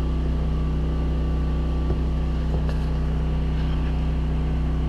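Steady low mechanical hum with an even, unchanging pitch, like a motor or fan running. A couple of faint light clicks come about two seconds in.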